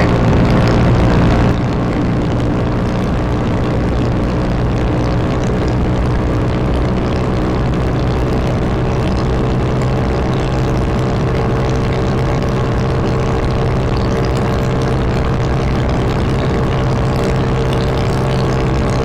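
Honda Wave 125's single-cylinder four-stroke engine running steadily while riding, with strong wind on the microphone. The level dips slightly about a second and a half in, then holds steady.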